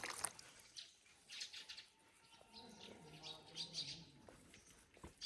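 Call duck giving a few faint, short high-pitched peeps in two small clusters.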